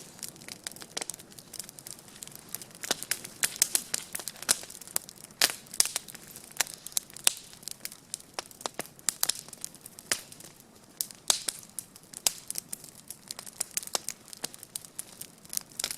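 Wood campfire crackling, with irregular sharp snaps several times a second.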